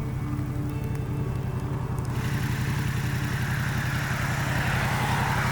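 Motorcycle engine idling steadily with an even, pulsing beat. About two seconds in, a rushing hiss joins it and grows louder.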